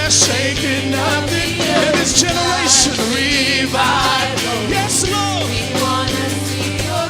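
Church worship band playing a rock-style praise song, with voices singing over drums, cymbals and steady bass.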